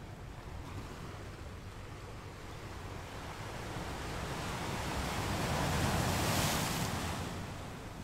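Ocean surf washing ashore: a steady rush of water that swells as a wave builds, breaks about six seconds in, and then falls back.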